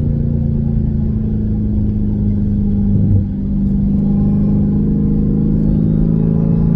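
Jeep Grand Cherokee Trackhawk's supercharged 6.2-litre Hemi V8 running steadily under way, heard from inside the cabin, with a short dip in level about three seconds in.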